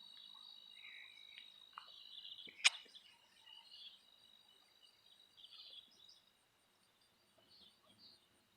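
Faint outdoor chorus of frogs and insects: a steady high-pitched trill with scattered chirps over it. One sharp click about two and a half seconds in.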